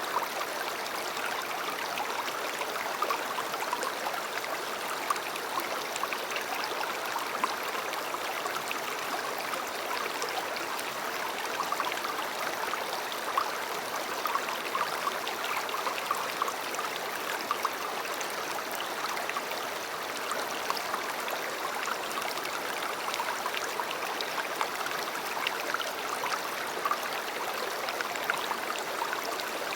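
A river flowing steadily over stones, an even rushing with small splashes and gurgles.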